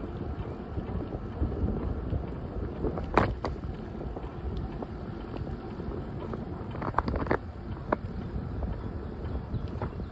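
Bicycle riding along a path: wind rumbling on the microphone with a steady low rumble from the ride, and a few sharp clicks, the loudest about three seconds in and a cluster around seven seconds.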